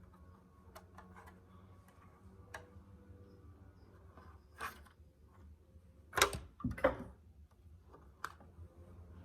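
Plastic Lego pieces being handled and pressed together: scattered light clicks, with two louder clacks around six and seven seconds in.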